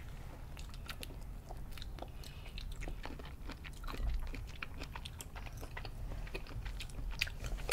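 Mouth sounds of chewing cocktail shrimp dipped in cocktail sauce: an irregular run of small wet clicks and smacks.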